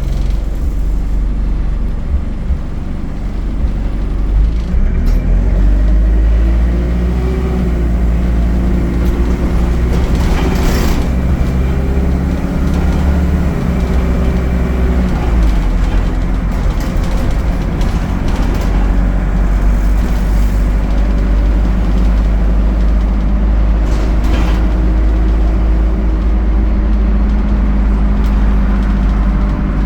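ADL Enviro 200 bus engine and Allison automatic gearbox heard on board: the engine rises in pitch as the bus accelerates, holds, falls away as it eases off about fifteen seconds in, then runs on steadily. Two short hissing noises stand out, about eleven seconds in and again near twenty-four seconds.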